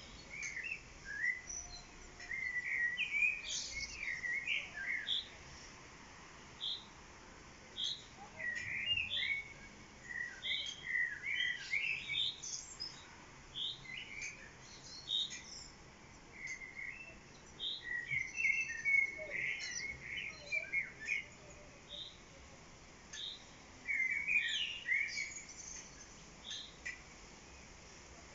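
Songbirds singing: clusters of quick twittering notes alternating with single high chirps every second or so, with short pauses between phrases.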